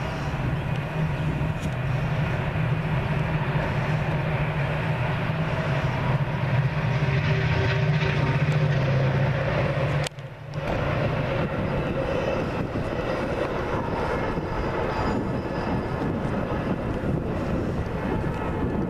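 Metra commuter train's diesel locomotive running at a distance, a steady low engine drone. The sound drops out briefly about ten seconds in, then goes on as a broader rumble.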